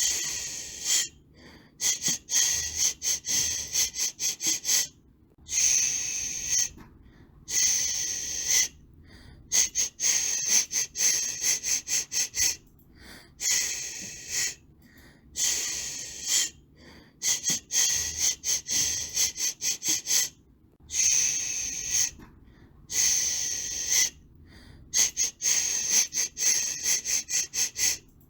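Shushing: a person's long 'shhh' hisses alternating with quick runs of short 'sh-sh-sh' pulses, several a second, with brief pauses between, the rhythmic shushing used to soothe a baby.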